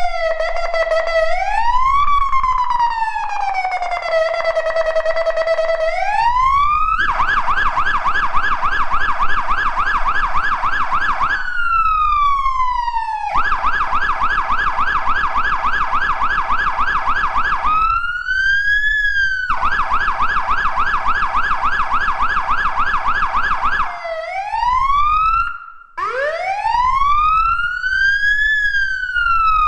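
Fire engine siren being run through its tones: slow rising and falling wail sweeps, a short held note, and long stretches of a fast yelp. Near the end it cuts out for a moment and restarts with a rising wail.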